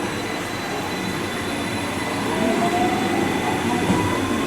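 JR West electric train running through the station, a steady rumble with a motor whine that rises in pitch over the second half as the train speeds up.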